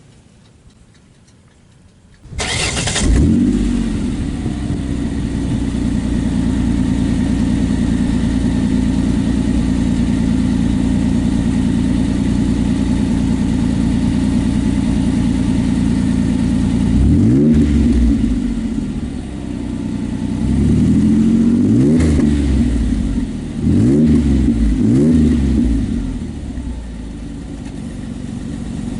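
2004 Ford Explorer Sport Trac's 4.0-litre V6 starting about two seconds in through a new Magnaflow muffler and side-exit dual-tip exhaust, flaring briefly and settling to a steady idle. In the second half it is revved several times in short blips, falling back to idle after each.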